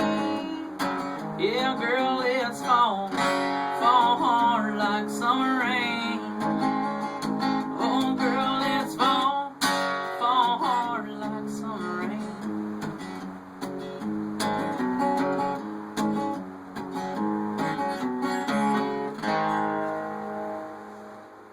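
Instrumental outro of a country song: acoustic guitar strumming, with a lead line bending in pitch over the first few seconds. The music fades out near the end.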